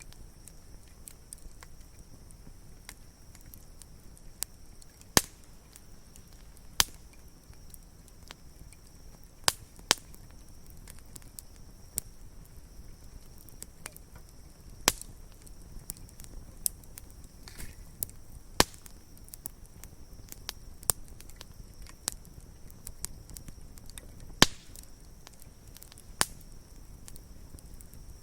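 Wood campfire crackling, with irregular sharp pops and snaps over a low steady hiss; several louder pops come a few seconds apart.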